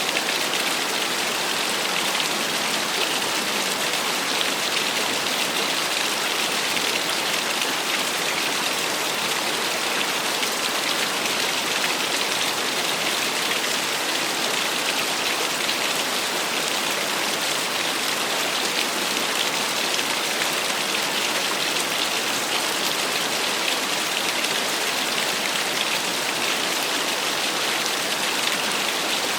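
Small waterfall splashing, a steady even rush of falling water with no change throughout.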